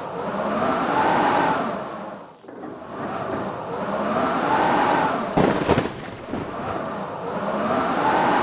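Blizzard wind blowing in gusts, surging and easing about three times, with a howl that rises and falls in pitch. A brief burst of sharp crackles comes about halfway through.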